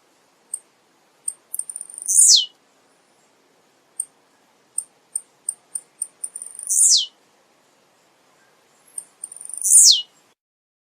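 Male blue-black grassquit (tiziu) singing: three high, buzzy calls, each a quick downward sweep, about two, seven and ten seconds in, with short high ticks before and between them.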